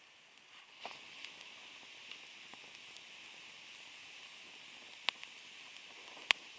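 Wood bonfire burning: a steady faint hiss with a few sharp, scattered pops, the loudest near the end.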